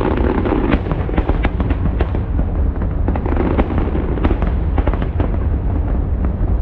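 Fireworks display: many sharp bangs and crackles in quick succession over a continuous low rumble.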